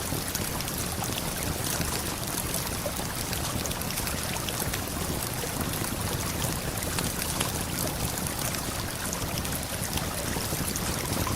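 Steady rush of a waterfall and flowing river, with the small, scattered crackles and pops of a campfire running through it.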